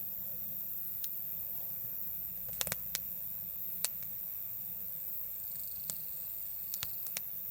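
Wood campfire crackling: scattered sharp pops, with a quick cluster of three about two and a half seconds in and a few more near the end, over a steady hiss.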